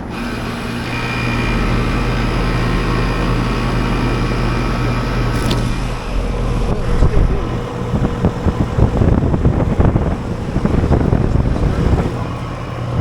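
Carrier outdoor air-conditioning unit starting up and running: a steady compressor-and-fan hum that comes up about a second in. From about seven seconds on, irregular gusty noise rides over the hum.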